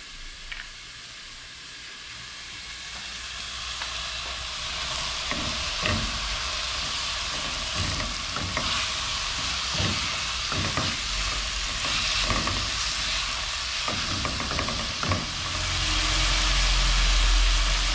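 Diced vegetables sizzling as they sauté in dendê (palm) oil in a pan, stirred with a silicone spatula that scrapes against the pan every second or two. The sizzling builds over the first few seconds, and there is a low rumble near the end.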